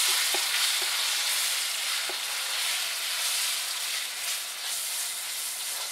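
Marinated chicken pieces sizzling in hot canola oil as they are tipped into a wok, with a few light knocks. The sizzle eases off gradually.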